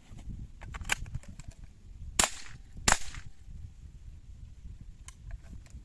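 Semi-automatic .22 LR carbine firing: a fainter crack about a second in, then two sharp shots about 0.7 s apart, each with a short ring after it.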